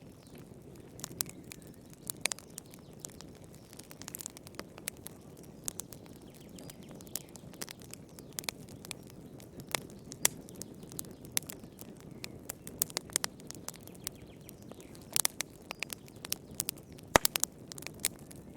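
Fireplace fire crackling, with irregular sharp pops over a steady low rumble of the flames; one louder pop comes near the end.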